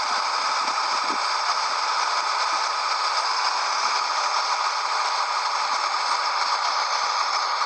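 Steady running noise with a continuous rattle from a 1998 Scania 113H 360 truck on the move.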